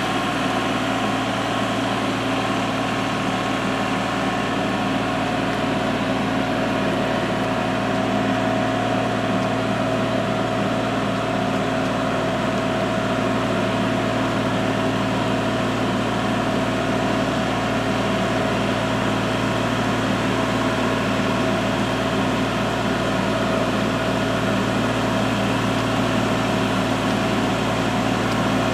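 Kubota L3301 HST tractor's three-cylinder diesel engine running steadily at an even speed.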